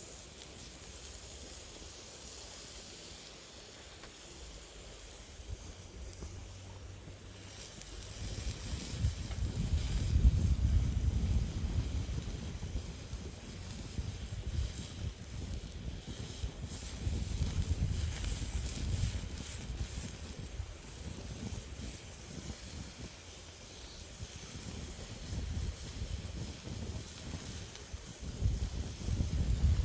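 A steady hiss with faint crackles, joined from about eight seconds in by an uneven low rumble of wind buffeting the microphone.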